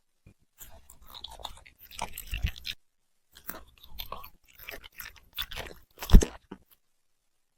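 A puppy chewing crunchy food: a run of crisp crunches and bites, a short pause about three seconds in, and the loudest crunch near the end.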